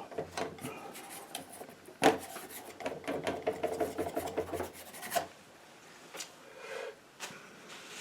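Painting knife scraping and spreading thick paint across the painting surface in a series of short rasping strokes, the sharpest about two seconds in.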